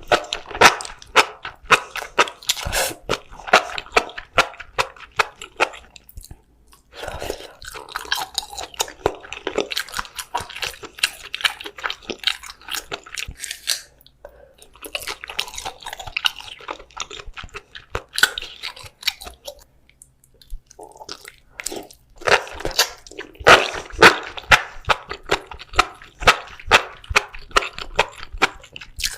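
Close-miked eating: crunchy bites and wet chewing in quick succession, broken by a few short pauses.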